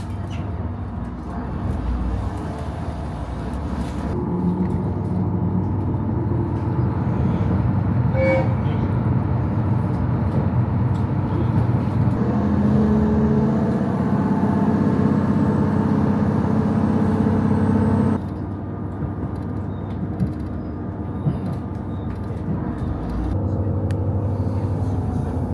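Diesel railcar running: a steady low engine hum that builds and grows louder, then drops suddenly about eighteen seconds in to a quieter run.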